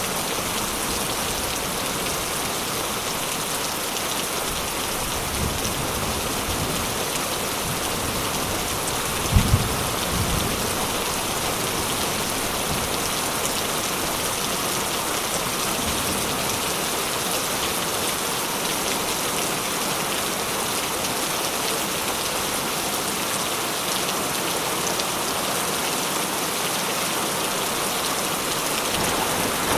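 Steady rain falling and pattering on surfaces, an even hiss of many drops, with one brief low thump about a third of the way through.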